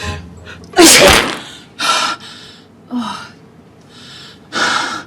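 A woman's loud sneeze about a second in, followed by three shorter, breathy bursts.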